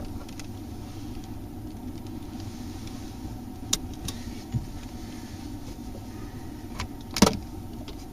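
A car driving, with a steady low rumble of engine and road noise as picked up by a dash camera, and a few sharp clicks or knocks, the loudest about seven seconds in.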